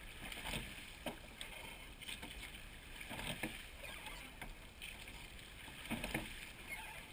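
Faint, irregular knocks and water sounds of a seine boat being rowed: long oars working against their pins and dipping in the water, over a low steady background of wind and water.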